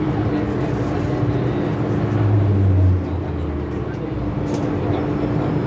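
MTR M-Train electric multiple unit running, heard from inside the car: a steady rumble with a constant hum. A strong low drone swells about two seconds in and cuts off about a second later, and the noise drops a little after it.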